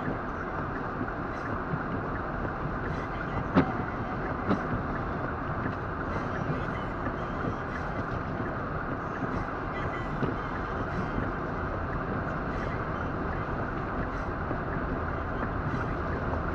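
Steady road and wind noise heard inside a car's cabin as it drives through a blizzard, with a sharp click about three and a half seconds in and another a second later.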